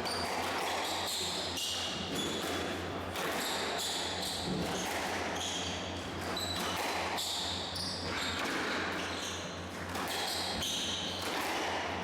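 Squash rally: the ball struck by rackets and knocking off the court walls again and again, with players' shoes squeaking briefly on the court floor, over a steady low hum.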